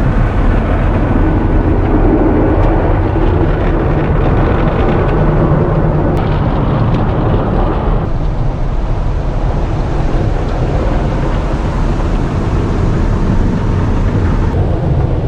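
Automatic soft-touch car wash heard from inside the car's cabin: a steady, loud rush of water spray and wash machinery against the car, changing in character about eight seconds in.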